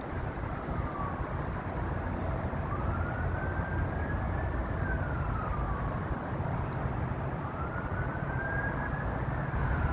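A siren wailing in slow rises and falls, one full cycle in the middle and another starting near the end, over a steady low rumble.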